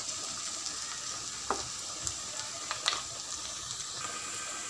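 Chopped okra and cashews sizzling in hot oil in a metal pan, with a few short clicks of a steel spoon stirring against the pan.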